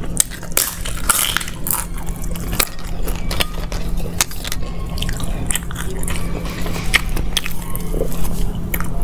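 Close-up chewing and biting of flaky lachcha paratha, with many sharp, irregular crackles as the crisp layers are chewed and torn apart by hand.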